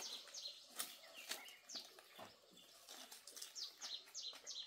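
Small birds chirping: a faint run of short, quick chirps, each falling in pitch, coming faster near the end.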